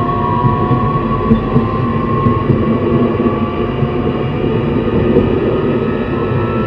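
Onboard running sound of a JR East E131 series 600 electric train: the motors and Hitachi hybrid SiC inverter whine in several thin tones that drift slightly in pitch, over a steady rumble of wheels on the rails.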